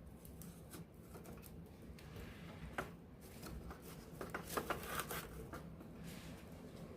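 Wood campfire heard up close, crackling with scattered sharp pops and a quick run of snaps about four to five seconds in, over a faint steady low background.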